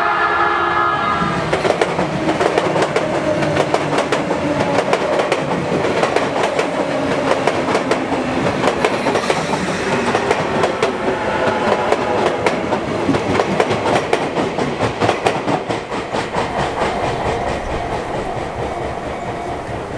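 Sotetsu Line electric train passing a level crossing, its wheels clicking steadily over the rail joints. A horn blast ends about a second in.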